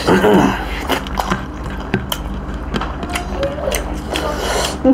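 Close-miked eating sounds: chewing and lip-smacking with scattered wet clicks, from people eating roast duck and rice by hand. A short vocal sound comes at the very start and a brief hum near the end.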